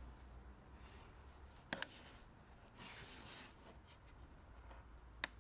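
Faint room tone with a few light clicks from handling an auto-darkening welding helmet: a quick double click about two seconds in and a single sharp click near the end.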